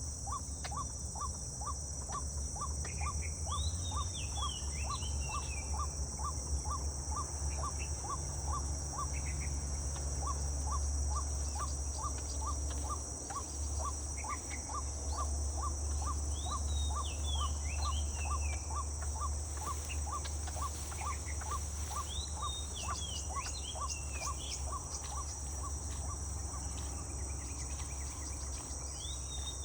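Steady high-pitched insect chorus, with a bird calling in short falling phrases now and then and a regular ticking note about three times a second. A low rumble runs underneath.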